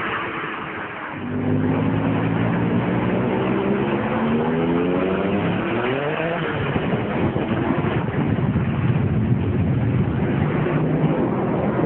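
Sports car engine accelerating hard at full throttle, its pitch rising steadily for about five seconds before a shift near the middle, then running on rough and loud.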